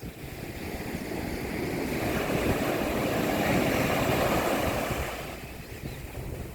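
Mediterranean sea wave breaking on the beach and washing up the shore, swelling over a couple of seconds and fading again near the end.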